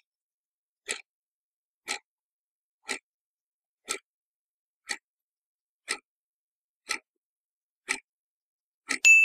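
Clock-ticking countdown sound effect, one tick a second for nine ticks, then a bright ding near the end that rings on.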